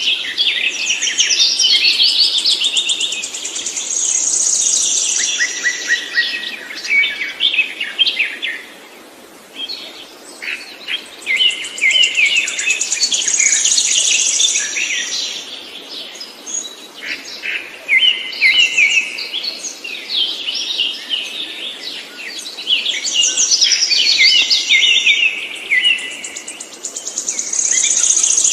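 A songbird singing long, rapid phrases of trills and chirps, in bouts of several seconds with a brief pause about nine seconds in.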